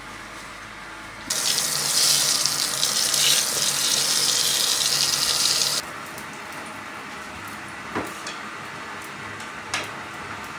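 Water running in a steady stream, as from a tap, for about four and a half seconds, starting and stopping abruptly. Two light clicks follow later.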